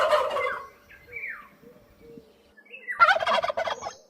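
Domestic turkey gobbling: a fast rattling gobble dies away about half a second in, and a second, louder one comes about three seconds in. Short high calls sound between them.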